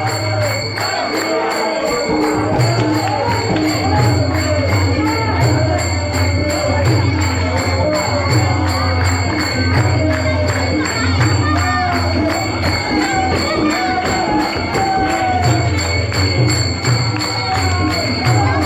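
Devotional music: a group of voices singing, with jingling cymbals or bells keeping a steady beat over a low drone.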